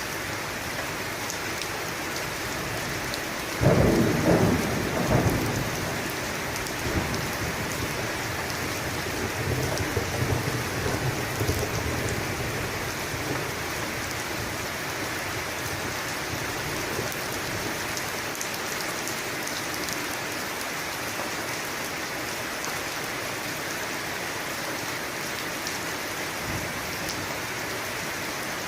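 Steady heavy rain falling, with a sharp thunderclap about three and a half seconds in that rumbles on for a couple of seconds, and a softer roll of thunder a few seconds later.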